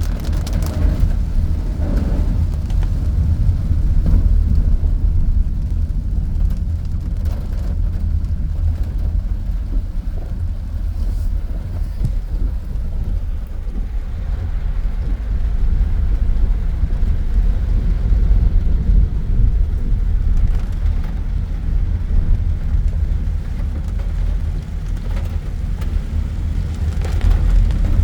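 A car being driven, heard as a steady low rumble of engine and road noise.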